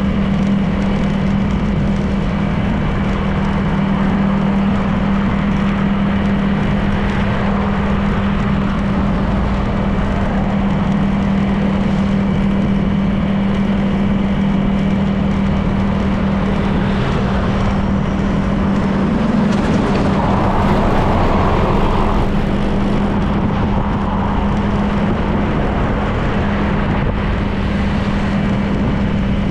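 Honda PCX 160 scooter's single-cylinder four-stroke engine running at a steady cruising speed, with a constant hum, over wind and road noise. There is a brief swell of louder noise about two-thirds of the way through.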